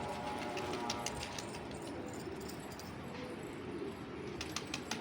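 Pigeons cooing, with a few sharp clicks near the end.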